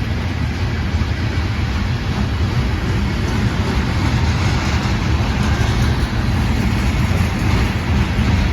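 Freight train passing close by, a steady loud rumble of cars rolling on the rails.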